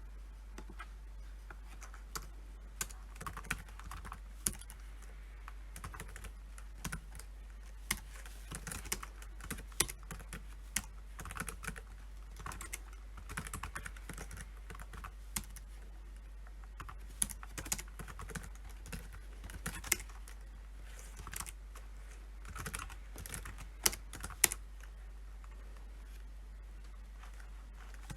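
Typing on a computer keyboard: irregular runs of keystrokes with short pauses between them, a few single keys struck harder than the rest. The typing thins out near the end.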